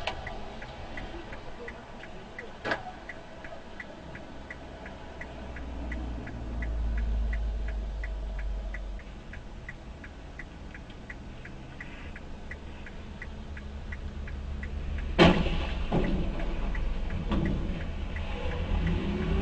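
A car's indicator relay clicking steadily inside the cabin, a little under three clicks a second, over the low rumble of the car. There is a sharp knock about three seconds in, and the clicking stops with a louder bang about fifteen seconds in, followed by a few more knocks.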